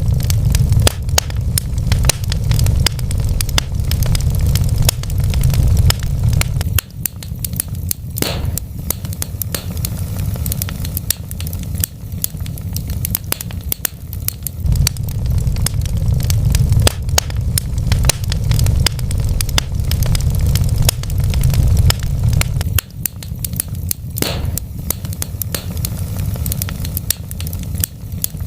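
Wood fire in a fireplace crackling, with dense, irregular pops and snaps over a low rumble that swells and eases.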